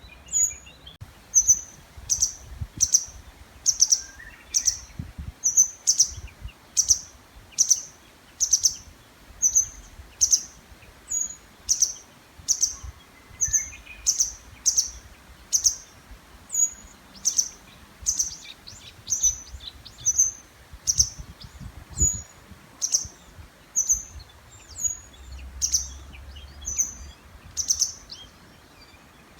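A songbird repeating one short, high-pitched call about once a second, steadily and without pause, typical of a bird calling for a mate in the breeding season. Other birds call faintly behind it.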